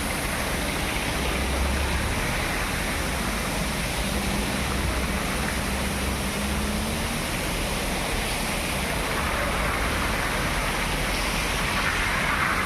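Steady rush of falling water from a waterfall, with a low rumble underneath. A faint hum rises slightly in pitch a few seconds in.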